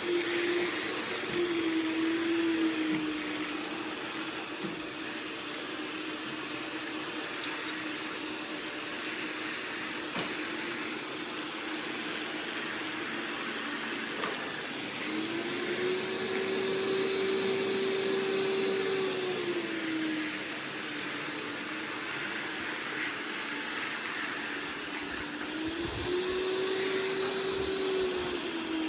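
iRobot Roomba Plus 405 Combo robot vacuum running with a steady motor hum and hiss. Twice its motor tone rises and holds higher for a few seconds, then drops back.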